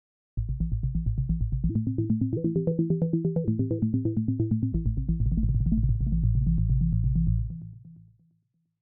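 Software synthesizer playing a fast arpeggio from the BLEASS Arpeggiator plug-in: quick, evenly repeated notes over low bass notes. It starts about half a second in and fades out near the end.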